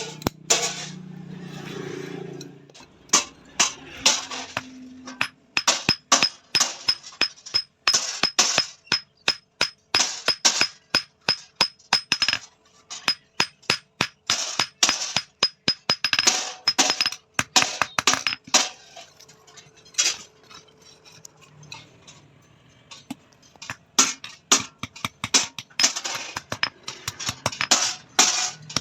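Hand hammer striking steel on an anvil: runs of sharp, ringing metal blows with short pauses between them.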